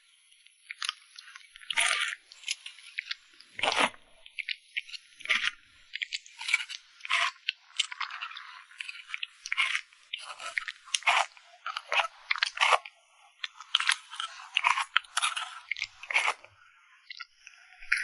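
Close-miked crunchy chewing and biting, many sharp crunches in quick, irregular succession as a person eats a mukbang-style meal.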